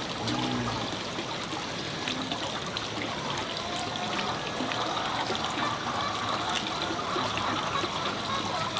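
Water trickling steadily, with small splashes and clicks.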